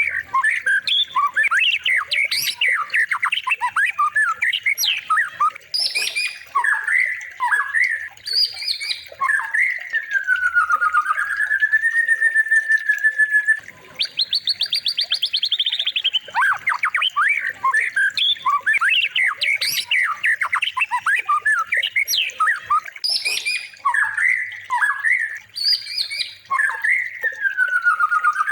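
Looped recording of a white-rumped shama singing a fast, varied song of chattering notes, sharp rising whistles and harsh squawks. Each pass ends in a wavering, sliding whistle. The same passage repeats about every fourteen seconds.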